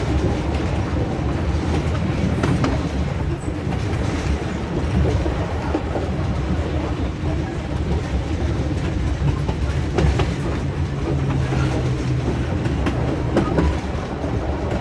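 Passenger train running along the track, a steady rumble of wheels on rail with occasional clacks, heard from aboard an open-sided carriage. A low hum joins for about two seconds past the middle.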